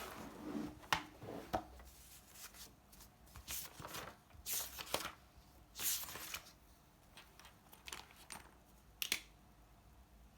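Irregular rustling and soft swishes of things being handled, with a few sharp small clicks, the loudest just after halfway and near the end.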